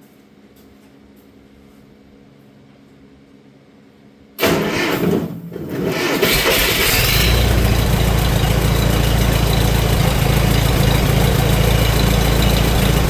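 The 1953 Minneapolis-Moline UB tractor's four-cylinder engine is cranked over about four seconds in and catches within about two seconds, then runs steadily. It runs a little bit fast, with its Delco distributor freshly refitted and the timing not yet set.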